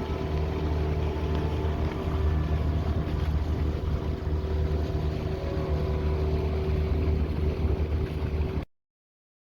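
Motorboat's engine running steadily under way, with wind and water noise over it. The sound cuts off suddenly shortly before the end.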